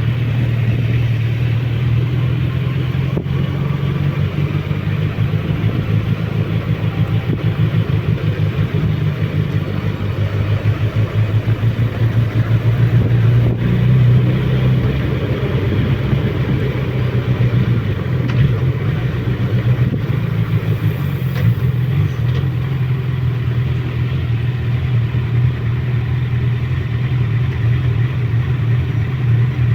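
Suzuki Bandit motorcycle's inline-four engine running steadily on a mountain descent, its level swelling and easing a little with the throttle.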